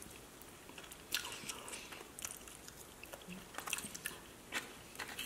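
Close-up sounds of a person chewing a chicken wing, with scattered short wet clicks and smacks from the mouth and lips.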